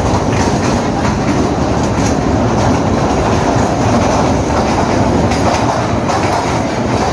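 Narrow-gauge Kalka–Shimla train running through a long tunnel, heard from on board: a loud, steady rumble with wheel clatter on the rails.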